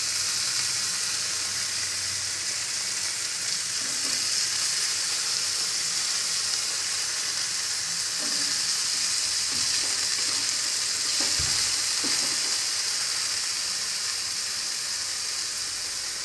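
Freshly added cubes of purple yam (pendalam) sizzling steadily in hot oil in a frying pan, stirred now and then with a spatula.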